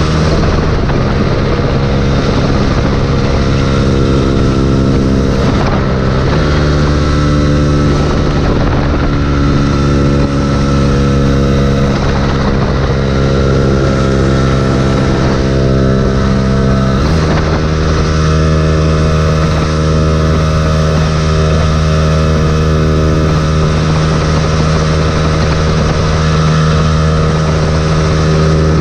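Yamaha YZF-R125's 125cc single-cylinder four-stroke engine running at steady revs while riding, its note changing to a new steady pitch about half a second in, again around six seconds in and around seventeen seconds in, over a hiss of wind and road noise.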